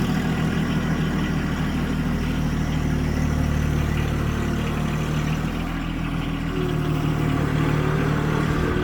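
A motor engine running steadily at low, even speed, with a deep hum.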